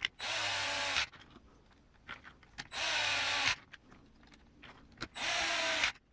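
Small cordless electric screwdriver run in three short bursts of just under a second each, about two and a half seconds apart, driving screws into the transmission.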